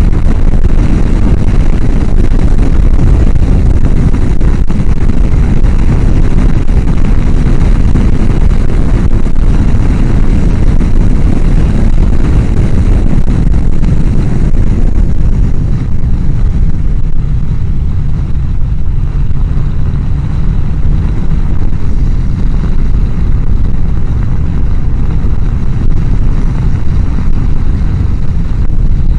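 Wind rushing over a helmet-mounted microphone on a moving motorcycle, loud and continuous. The mic sits right behind the helmet's chin-bar air vent, so the air blast drowns out almost everything else. It eases a little past the middle.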